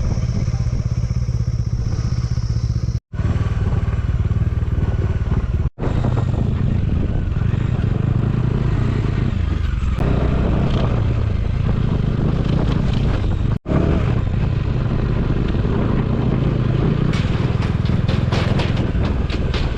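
Motorcycle engine running under way, with road and wind noise, cutting out for a split second three times. Near the end comes a quick run of sharp rattling clicks.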